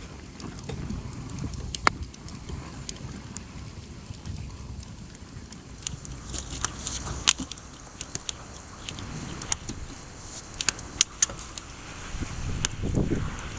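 Small wood fire crackling, with scattered sharp pops that come more often in the second half. Wind buffets the microphone.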